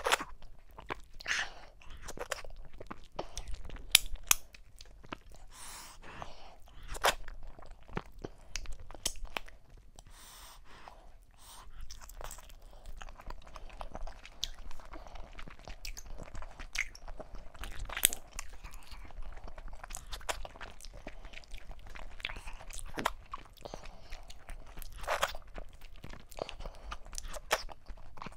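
Close-miked chewing and mouth sounds of a person eating fufu with okra soup and meat by hand: irregular smacks and clicks, a few louder than the rest.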